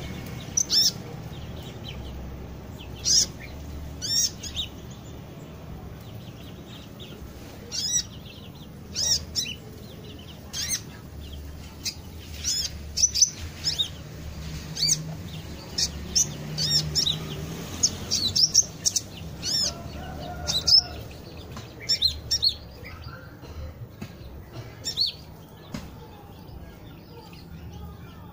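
Small birds chirping: short, sharp high-pitched calls repeated irregularly, about one every second or two.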